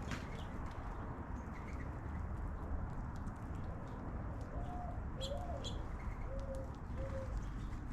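A dove cooing: a short coo, then a longer coo that rises and falls, then two level coos, starting a little past halfway. Small birds chirp briefly among them.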